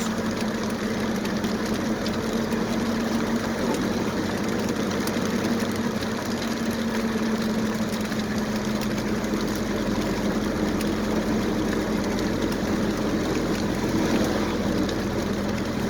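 Steady engine and road noise heard from inside a moving vehicle's cabin, with a constant low hum.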